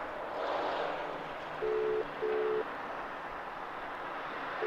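Telephone ringback tone of an outgoing call over a phone speaker: a double ring, two short beeps in quick succession, heard once about one and a half seconds in, with the next double ring starting at the very end, over a faint line hiss.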